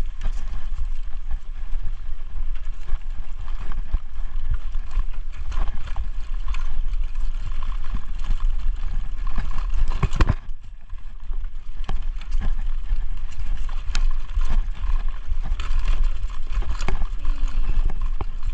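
Wind rumbling on a chest-mounted action camera's microphone, with irregular clicks, knocks and rustles from movement over the trail; one louder knock about halfway through.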